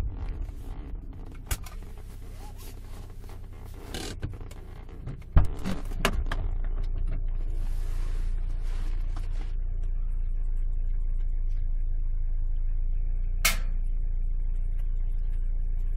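Alfa Romeo 156 heard from inside the cabin while driving: a low engine and road drone, quieter for the first few seconds with scattered clicks and creaks, a sharp knock about five seconds in, then a steadier, louder drone.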